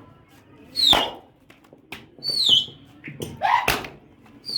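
A bird's short, high calls, three of them about a second and a half apart, each falling in pitch. There are a couple of sharp knocks between them.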